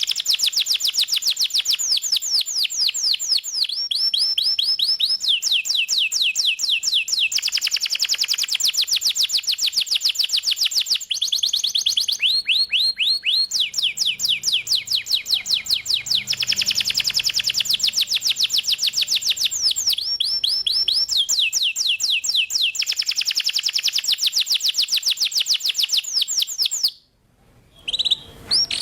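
Domestic canary singing in full, continuous song: fast trills of repeated notes, each trill giving way to another of a different pitch and speed every second or two, with a brief break near the end.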